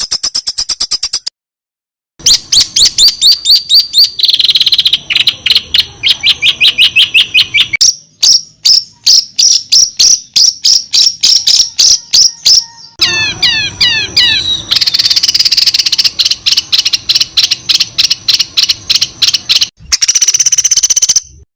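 Loud, fast songbird song made of trains of rapid, high repeated chip notes and quick trills, several notes a second. It comes in edited sections that change abruptly, with a brief dead silence about two seconds in.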